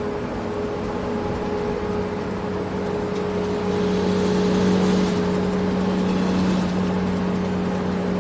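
Small electric motor of a toy vehicle running with a steady hum, swelling louder about four seconds in and easing off again.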